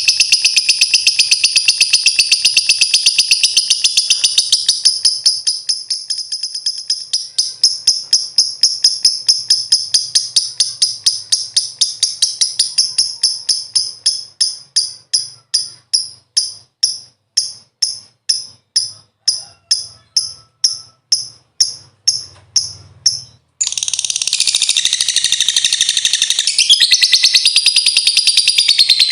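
Lovebird ngekek: a long, fast, high-pitched chattering trill that gradually slows into separate sharp chirps, about three a second. It breaks off abruptly near the end and a fresh fast trill starts.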